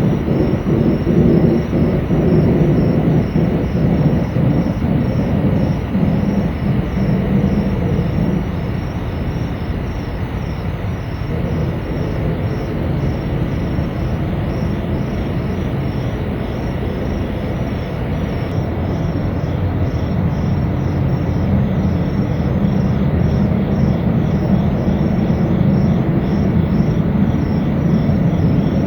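A loud, continuous low rumbling drone of unknown origin that eases off about a third of the way in and builds again in the second half. Faint rhythmic chirping sits high above it.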